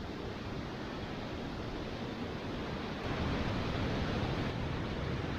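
Steady rushing of a waterfall, a little louder from about three seconds in.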